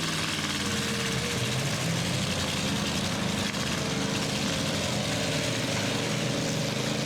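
Engines of several demolition derby trucks running together in a steady, loud mix, with small shifts in pitch as they rev.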